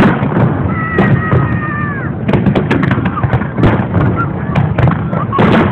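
Aerial fireworks shells bursting in quick, irregular succession: a dense run of bangs and crackles over a low rumble, with a high tone that slides down in pitch about a second in.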